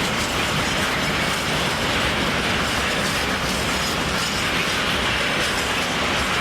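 Train running along the track: a steady rolling noise of wheels on rails, with some clatter.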